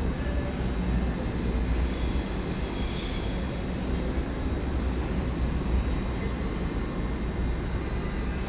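Electric passenger train moving slowly through a station platform with a steady low rumble, and a brief high-pitched wheel squeal about two seconds in.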